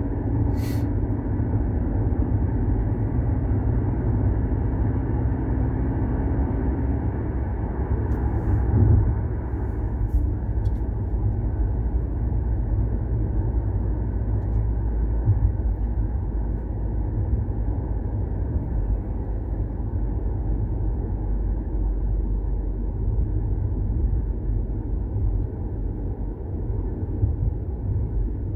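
Volkswagen Golf 6 TSI driving, heard from inside the cabin: a steady low engine and road rumble. The occupants judge these engine noises to be normal.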